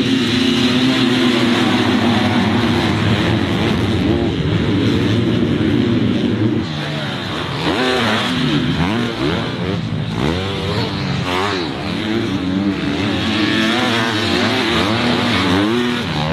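Many motocross bike engines running at once: a dense, steady drone for about the first six seconds, then several engines rising and falling in pitch as the riders work the throttle and shift gears.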